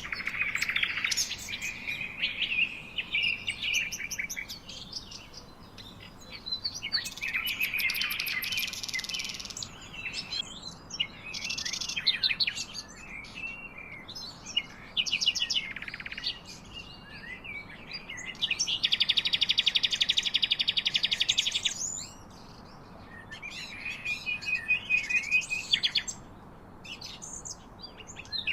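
Songbirds singing and chirping in a series of high phrases and rapid trills, with a long, even trill in the middle.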